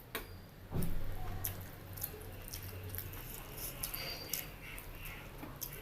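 A person chewing and eating food close to the microphone: wet squishing and smacking mouth sounds with many small clicks, and a louder soft bump about a second in.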